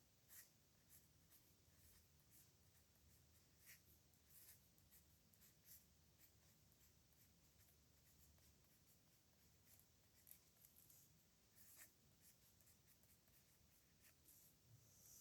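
A pen nib scratching across paper in short, irregular strokes while handwriting calligraphy, faint.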